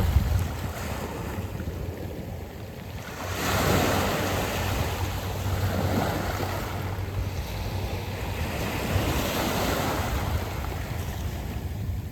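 Waves washing onto a round-pebble beach, swelling and ebbing in surges, the loudest one building about three seconds in. Wind rumbles on the microphone underneath.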